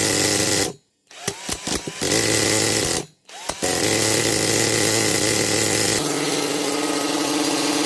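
Small nitro RC monster truck engine running at high revs with a harsh buzz, in short clips separated by sudden cut-outs; from about six seconds in it runs more steadily and a little quieter.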